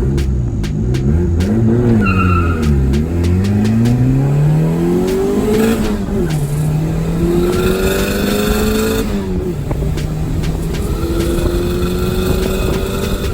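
Car engine revving, its pitch rising and falling twice, then pulling up through the revs with two sudden drops in pitch at gear changes, about six and nine seconds in.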